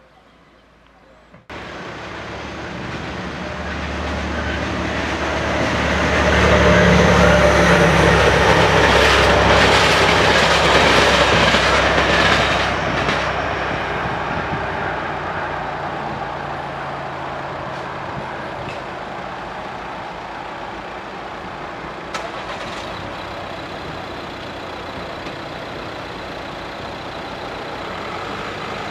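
A diesel train passing the level crossing. Its rumble, with a low engine note, starts suddenly about a second and a half in, is loudest a few seconds later and fades off after about twelve seconds. Road vehicles waiting at the crossing run on quietly after it.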